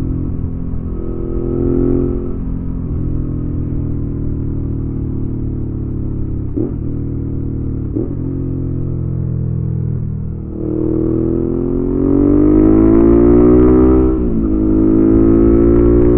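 Suzuki V-Strom 650's V-twin engine through a Delkevic aftermarket exhaust, on the move. It runs at a steady note with two quick dips in pitch around the middle. It then accelerates hard, the pitch climbing, falls sharply as it shifts up a gear near the end, and pulls up again.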